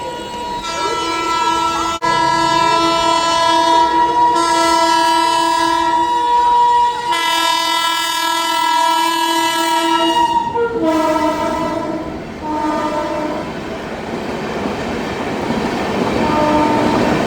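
Indian Railways EMU local train sounding its horn in one long, loud blast as it approaches, breaking off about ten seconds in and dropping in pitch for a few shorter blasts. The train then passes with a rising rumble of wheels on the rails, and one more short horn blast comes near the end.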